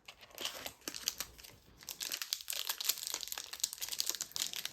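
Foil trading-card booster pack wrapper crinkling as it is pulled and torn open, a dense crackle that gets busier about two seconds in. The wrapper is hard to open.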